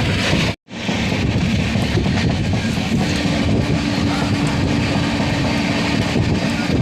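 Steady running noise of a moving passenger train, with its wheels on the rails, cut off completely for a moment about half a second in. A faint steady tone joins about halfway.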